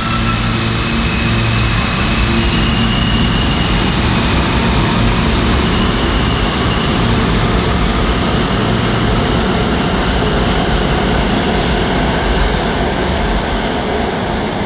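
R160 subway train pulling out and picking up speed, with a steady loud rumble of wheels on rail. Over the first few seconds the electric motors whine in thin tones that step up in pitch, then fade under the running noise.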